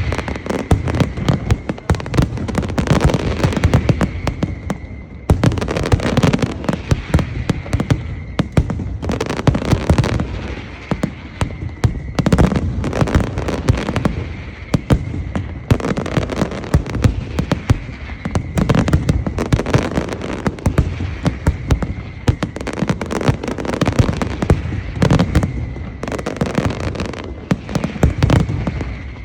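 Large aerial fireworks barrage: a dense, continuous crackle of bursting shells and bangs that swells in waves every two to three seconds.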